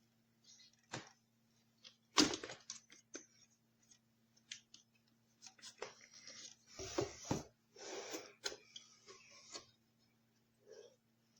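Handling noises: sharp clicks and knocks, the loudest about two seconds in, then a few seconds of rustling and scraping, over a faint steady electrical hum.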